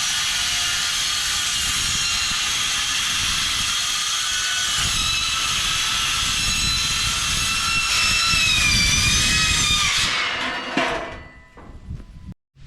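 Circular saw with a worn-out blade cutting metal roofing: a loud, steady high-pitched screech whose tones waver near the end of the cut. About ten seconds in the cut ends and the saw winds down, with a sharp click.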